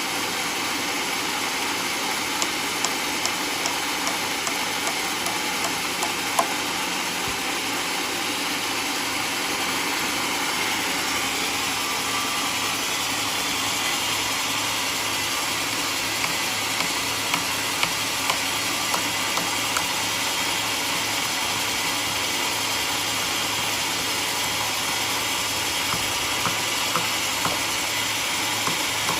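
Portable sawmill running steadily while it cuts a mahogany log: an engine hum under a bright hiss of the blade in the wood. A few short runs of light ticks come and go.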